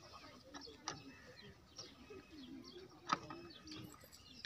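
Faint birds chirping, with some lower cooing calls. Two sharp clicks, the second, about three seconds in, the loudest.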